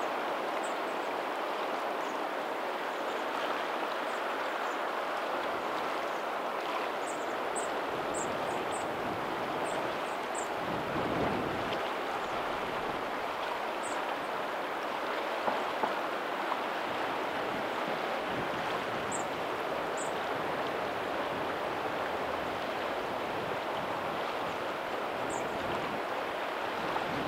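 Steady rushing of a lagoon's tidal outflow running into the sea, with faint ocean waves behind it. A low swell rises and falls about eleven seconds in.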